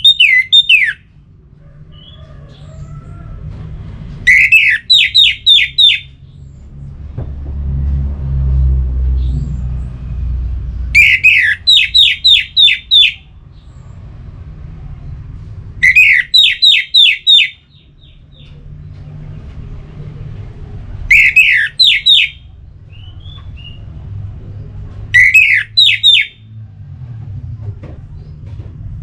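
An orange-headed thrush (anis merah) sings loud, repeated phrases about every four to five seconds. Each phrase opens with a falling note and runs into a quick string of four or five short, high notes. A low hum sits underneath.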